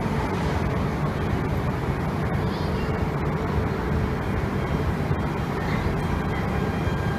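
Shinkansen train rolling slowly along a station platform, a steady low rumble of its motors and wheels echoing under the platform roof.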